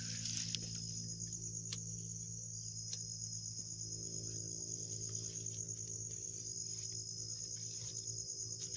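Crickets trilling steadily in a high-pitched, continuous chorus, over a steady low hum, with a few sharp clicks.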